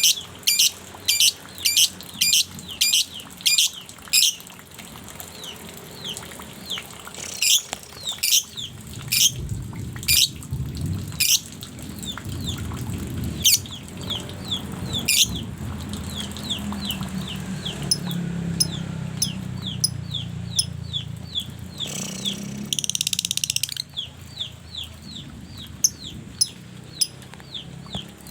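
A pet songbird calling over and over with sharp, high notes, about two a second at first, then a quicker run of short, falling chips. A low rumble runs under the calls through the middle stretch.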